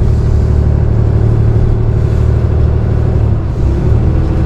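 Tow truck engine running steadily under load as it climbs a steep road, heard from inside the cab; the engine note shifts about three and a half seconds in.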